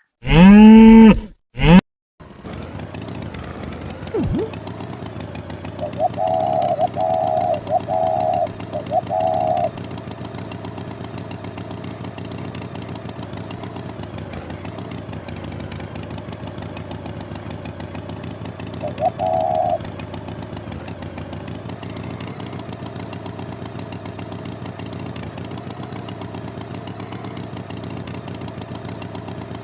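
A loud low call, like a cow's moo, in the first two seconds. Then a steady engine-like drone, like a motor idling, with a run of four short pulsed tones about six seconds in and a single one near the twentieth second.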